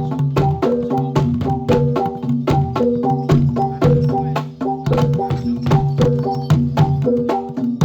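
Javanese gamelan music accompanying jathilan dance: a quick, steady rhythm of drum strokes over a repeating pattern of pitched struck notes.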